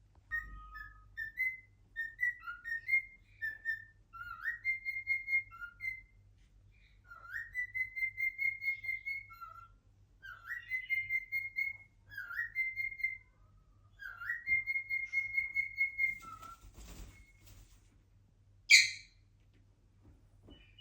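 Cockatiel whistling its song: short phrases of clear whistled notes, each starting with an upward slide into a held note, repeated in groups with short pauses. Near the end comes a single short, loud, harsh screech.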